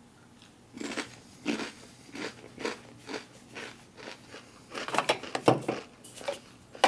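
Close-up crunching and chewing of a piece of crispbread topped with caviar, in irregular crisp crunches that grow loudest about five seconds in. A sharp knock comes at the very end.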